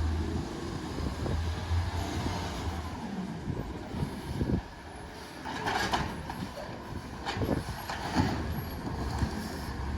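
Garbage truck working: its engine runs with a steady low hum, with scattered knocks and clanks and a short hiss about six seconds in.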